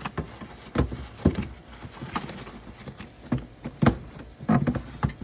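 Irregular knocks and clunks of things being handled in a refrigerator, about a dozen, with the heaviest near the end.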